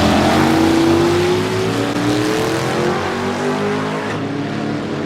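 Drag-racing engines at full throttle accelerating down the strip. The pitch climbs, drops back at each gear change and climbs again, and the sound fades a little as the cars pull away.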